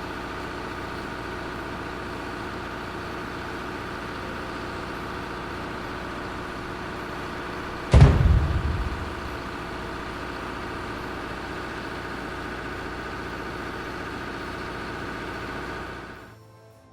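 A heavy vehicle or machine engine runs steadily. About halfway through there is a single loud, deep thud that dies away over about a second. The engine sound cuts off near the end.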